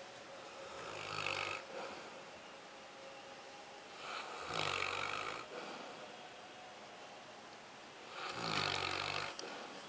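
A Newfoundland dog snoring: three snores about four seconds apart, each lasting about a second.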